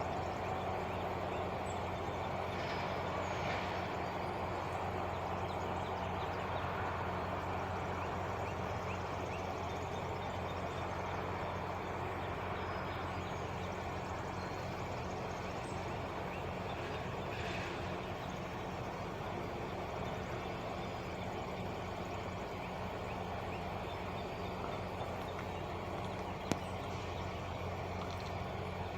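Diesel truck engine idling steadily: a constant low hum. A single sharp click near the end, and a few faint high calls.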